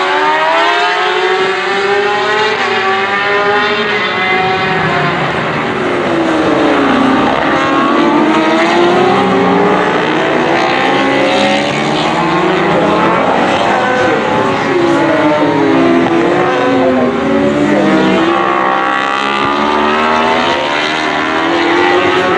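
Several racing motorcycles passing at speed, their engine notes overlapping and rising and falling in pitch as they pass one after another.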